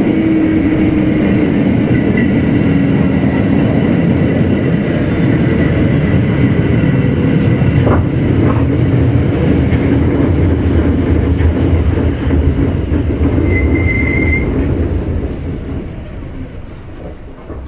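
Kintetsu 2610 series train running and braking into a station, heard aboard motor car Mo 2616: steady wheel and motor noise that fades as the train slows to a stop near the end. A brief brake squeal comes about 14 seconds in.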